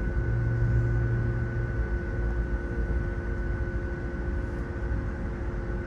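Passenger train rolling slowly on the rails, heard from inside the coach: a steady low rumble with a constant electrical hum over it.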